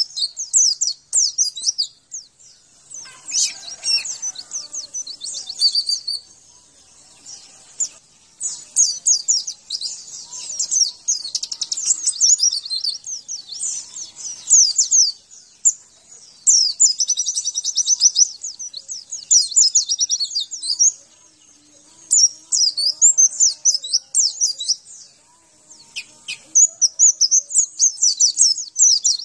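White-eye (pleci) singing: fast, high, chattering song phrases a few seconds long, repeated with short pauses between them.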